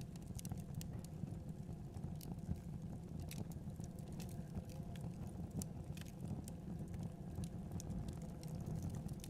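Logs burning in a fireplace, crackling with frequent irregular sharp pops and ticks over a steady low rumble of the flames.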